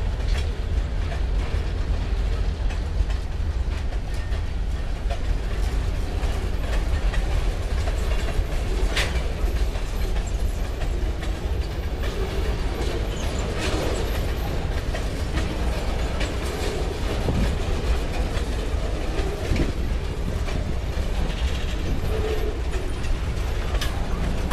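Freight train boxcars rolling past, their steel wheels clattering over the rail joints in a steady rumble, with a few sharp clanks.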